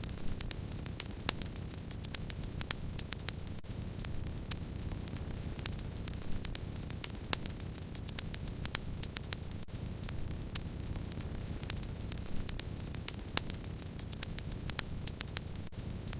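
Wood fire crackling: a steady low rush of burning with frequent sharp, irregular crackles and pops.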